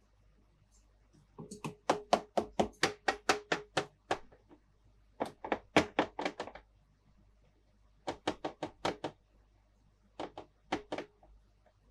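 Four runs of quick, sharp taps and clicks from handling toy playset pieces, a handful to about a dozen strikes per run with short pauses between.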